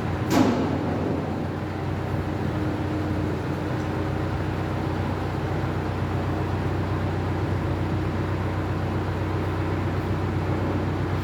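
A vehicle's engine running steadily with a low, even hum, most likely the tow truck's. A single sharp knock sounds about half a second in.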